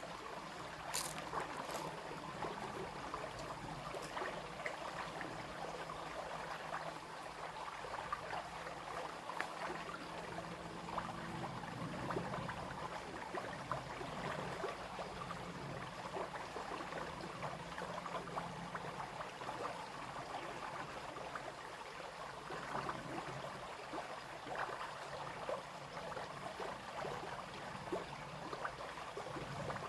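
Small brook babbling and trickling steadily over stones. A faint low hum joins in for a while in the middle.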